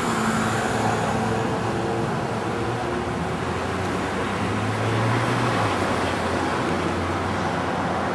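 Road traffic noise: a car engine's low hum over steady road and tyre noise, the hum swelling slightly about five seconds in.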